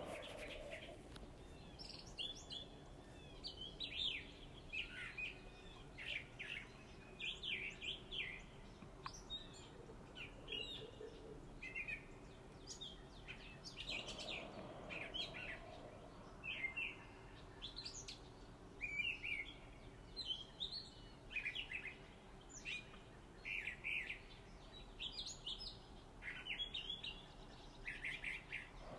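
Small birds chirping: short, high calls one or two a second, over a faint steady hum.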